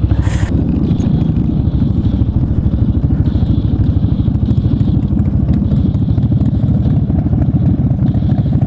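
Motorcycle engine running steadily under way, its exhaust pulses even and unbroken.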